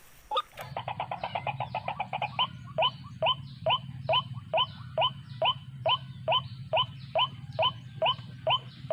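White-breasted waterhen calling: a quick run of short notes for the first couple of seconds, then a steady, even series of short rising 'kruak' notes about two a second, over a low hum.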